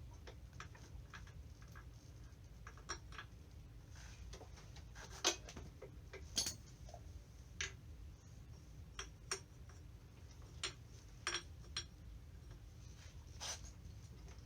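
Light metallic clicks and clinks from tools and small parts being handled while working on a 50cc dirt bike, about a dozen irregularly spaced knocks over a low steady hum.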